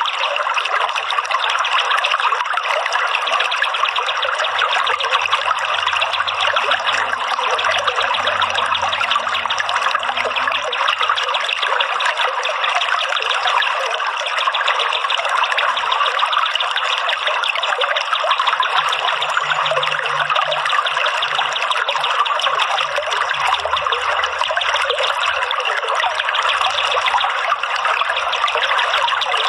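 Steady running water, a continuous trickling stream sound with no break.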